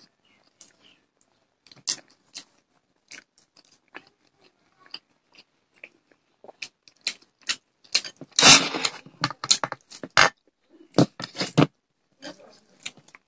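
Close, wet chewing and lip-smacking of people eating rice and curry by hand, made of many short sharp clicks that grow more frequent in the second half. About eight and a half seconds in comes one louder, longer burst of noise lasting under a second.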